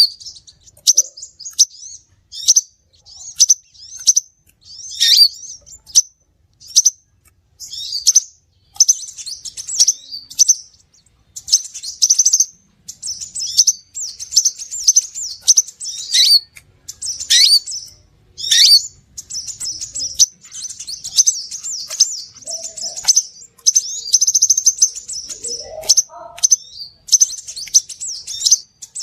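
Crimson sunbird (sepah raja) calling: bursts of rapid, high-pitched chirps and twitters repeated every second or so, a sunbird lure (pikat) recording.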